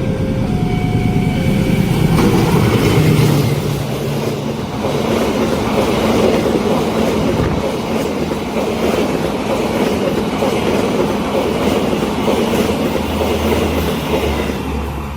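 Train passing close by: a loud steady rumble of wheels on rails with clicking over the rail joints, easing off near the end.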